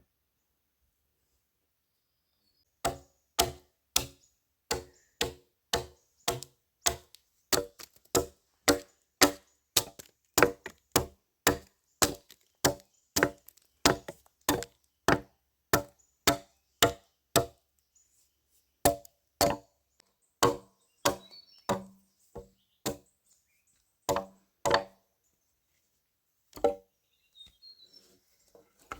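Wood being struck over and over with a hand tool, about two blows a second, starting about three seconds in, with short pauses and one last single blow near the end.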